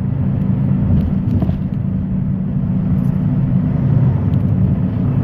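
Semi truck's diesel engine running steadily under way: a steady low drone with road noise.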